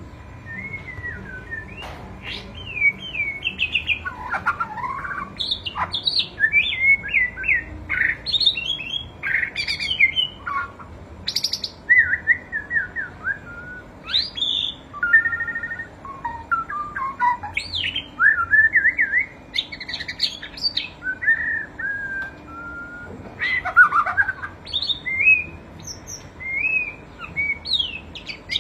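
White-rumped shama (murai batu) singing: a varied song of clear whistled phrases, sweeping up and down, mixed with rapid chattering note runs, in bursts with short pauses between them.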